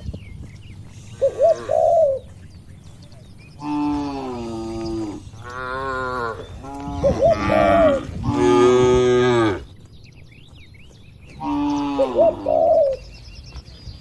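Domestic cattle mooing several times: a few short calls near the start and again near the end, and a run of long, drawn-out moos in the middle. Small birds chirp faintly between the calls.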